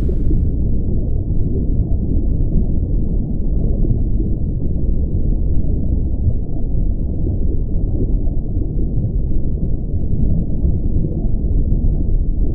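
Muffled, steady rumble of moving water heard through a submerged camera's housing, with all the higher sounds cut off.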